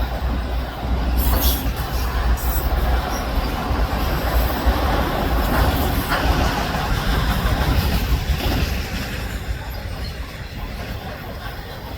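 Freight train of autorack cars rolling past on the rails: a continuous rumble of steel wheels with a few sharp clanks, easing off near the end.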